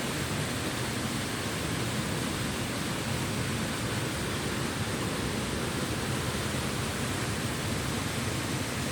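Mountain stream running: a steady, unbroken rush of water.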